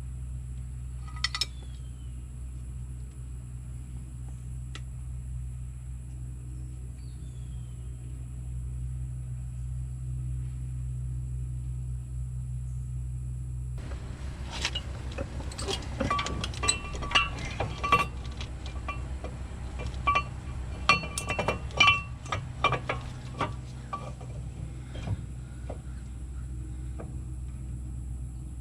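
Metal parts and tools clinking and knocking as they are handled during brake work, in a dense run of sharp, ringing clinks through the middle of the stretch, over a steady low hum.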